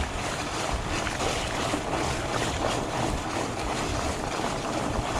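Steady wind noise on the microphone and the rumble of a fat bike's tyres rolling along a dirt trail while riding.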